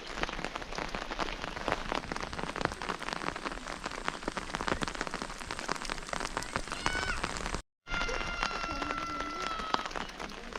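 Steady rain falling, a dense patter of drops hitting surfaces. It breaks off abruptly for a moment a little past halfway, then resumes with a thin, high, steady tone held for about two seconds over the rain.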